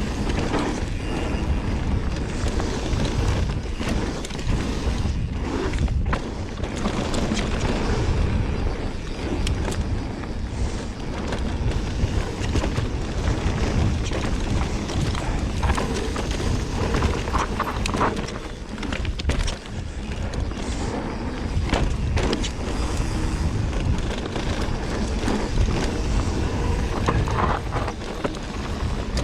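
Mountain bike riding down a rough dirt trail: steady wind rumble on the microphone, tyres rolling over dirt and rocks, and the bike clattering over bumps.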